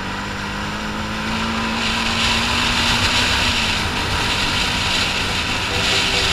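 Off-road motorcycle engine running steadily, with a loud rush of wind noise that swells about two seconds in.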